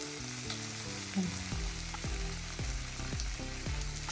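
Chicken liver frying in oil in a pan, a steady sizzle. Under it plays background music with low held notes, and a regular beat of thuds comes in about a second and a half in.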